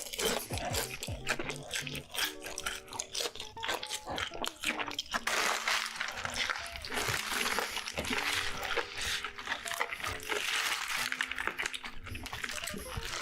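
Close-miked eating: crunchy bites and chewing, with a thicker run of crunching through the middle, over soft background music.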